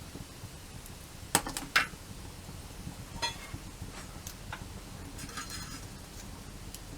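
Wood fire crackling, with two sharp pops about a second and a half in and scattered fainter crackles after.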